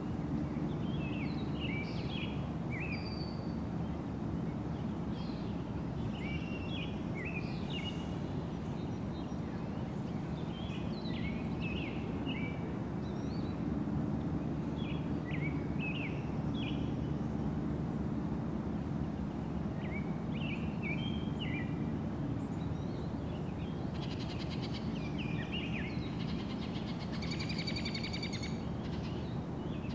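Songbirds chirping in short, scattered phrases over a steady low background rumble, with a longer, drawn-out call near the end.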